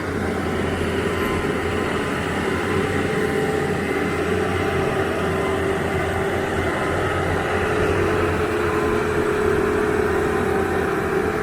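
Engine-driven machinery running steadily, with a constant low hum and a steady tone above it.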